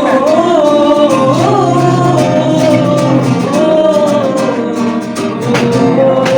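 A Hindi film song: a male voice sings long, wavering held notes over the backing music.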